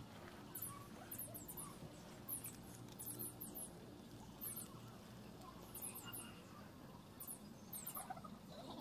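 Small birds chirping in quick, very high-pitched bursts every second or so, over a faint low hum.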